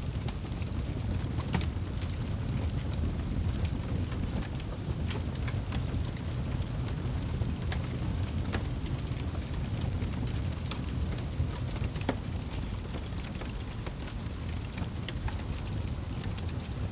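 Wood fire burning in a fireplace: a steady low rumble of flames with frequent irregular sharp crackles and pops from the firewood.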